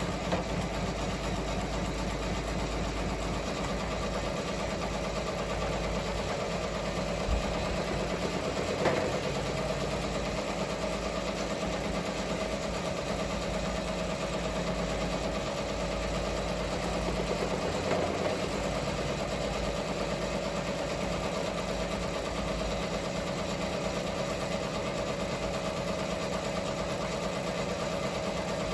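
Ricoma MT-1501 fifteen-needle embroidery machine running steadily, stitching out a design.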